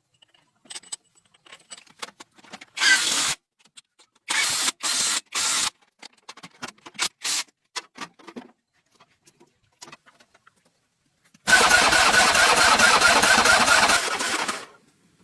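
Car engine being cranked: several short bursts of cranking, then a longer run of about three seconds with rapid even pulses that cuts off near the end.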